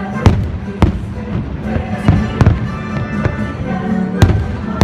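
Fireworks shells bursting in several sharp bangs, a second or two apart, over orchestral show music.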